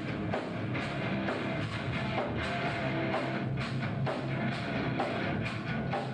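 Hard rock song played by a band: drum kit keeping a steady beat under guitar.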